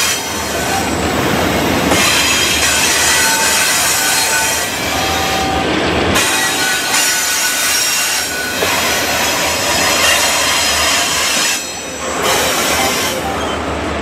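Double-stack intermodal container train's well cars rolling past close by: a loud, steady rumble and rattle of steel wheels on rail, with high-pitched wheel squeal ringing over it.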